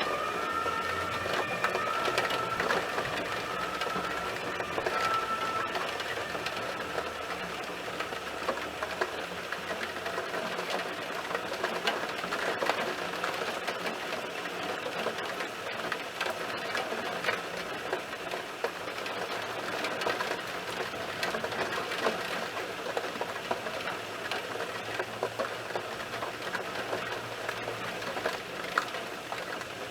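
Heavy thunderstorm rain pattering, a dense, steady mass of tiny rapid ticks. A distant siren's tones fade out in the first few seconds.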